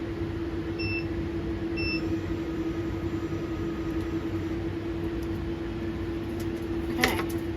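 Laser cutter running its fans with a steady hum and a held tone, with two short electronic beeps about a second apart near the start, as from keypresses on the control panel to move the laser head. A single sharp knock near the end.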